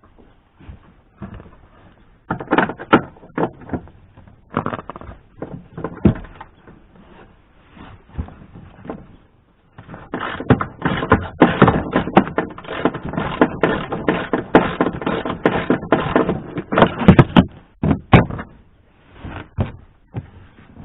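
Metal hand tools clattering and knocking together in irregular bursts, busiest in the middle stretch, as a hex tool is hunted for among them.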